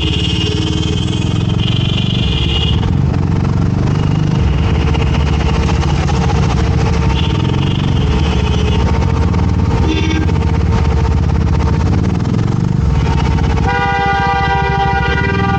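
Motorcycle engine running steadily while riding in traffic, with a rushing road and wind noise. Vehicle horns honk briefly a few times, the longest and loudest near the end.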